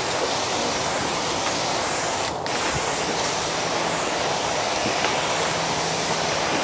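Sprayer spraying pre-wash cleaner onto a car's lower panels and wheels: a steady hiss of spray, cut off briefly about two and a half seconds in.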